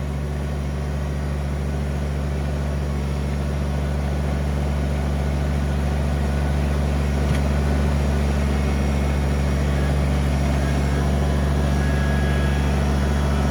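Kubota BX23S tractor's three-cylinder diesel engine running steadily, slowly getting a little louder.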